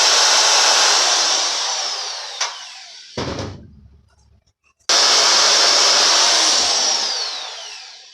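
Handheld power drill with a twist bit drilling holes in a metal plate: it runs, then winds down over the first few seconds, a short knock about three seconds in, then the drill starts up abruptly near the middle and winds down again with a falling whine near the end.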